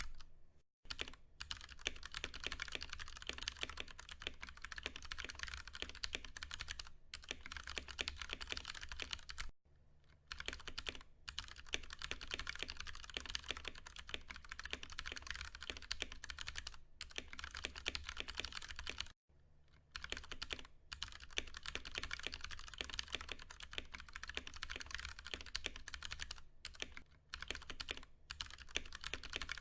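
Fast, continuous typing on a Ducky One 2 Mini mechanical keyboard with tactile Cherry MX Brown switches, dense key clicks broken by short pauses near the start and about ten and nineteen seconds in. A faint low hum runs underneath.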